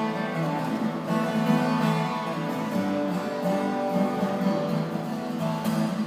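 Solo acoustic guitar playing an instrumental break between sung verses of a traditional folk song, picked notes in a steady rhythm.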